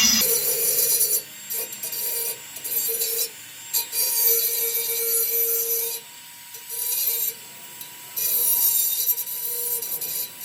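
Dremel rotary tool grinding through exhaust pipe metal: a steady high motor whine with several one-to-two-second bursts of harsh grinding hiss as the tool bites in and backs off.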